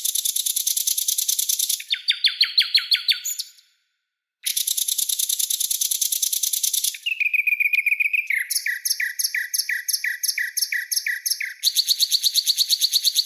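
Songbird calls from a bird-training 'masteran' recording: harsh, fast buzzing rattles ('besetan') alternating with quick runs of repeated sharp, falling notes ('tembakan'). There is a brief dead-silent gap a little under 4 s in, and a short steady whistle about 7 s in.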